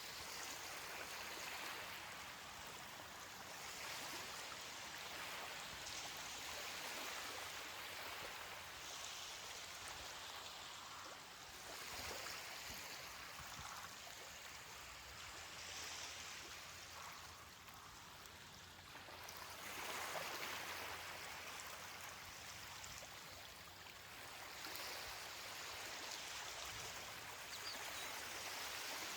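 Ocean waves washing onto a beach: a steady hiss of surf that swells and eases every few seconds.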